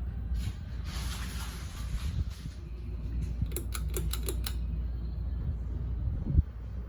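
TroposAir Voyage ceiling fan running with a steady low hum. About three and a half seconds in comes a quick run of about seven sharp clicks, and a thump near the end.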